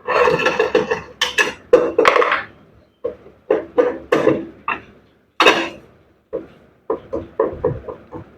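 Irregular metal clanks and knocks with short ringing, tools striking and working on the metal gearbox of a top-load washing machine. They come in a dense clatter for the first couple of seconds, then as separate knocks a few per second.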